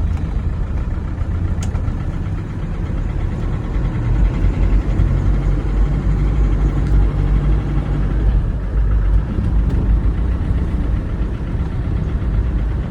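Land Rover Defender pickup's engine pulling away slowly in first gear, a steady low rumble heard from inside the cab. The engine is not yet warmed up after sitting for ten days.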